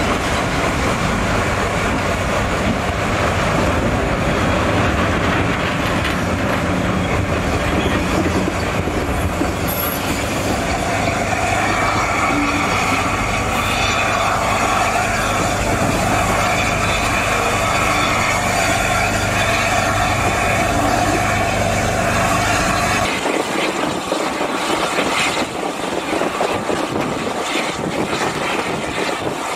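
Passenger coach running along the track, heard from its window: a steady rumble of wheels on rail, with a steady high squeal through the middle stretch. The deep rumble drops away near the end.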